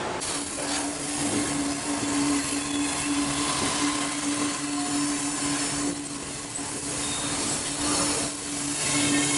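Freight train running on the line: rolling rail noise under one steady drone.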